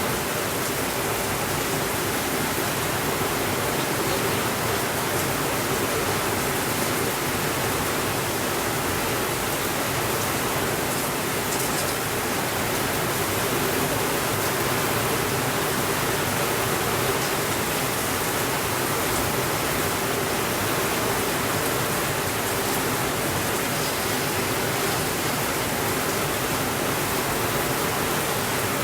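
Steady rainfall, an even unbroken hiss with no thunder.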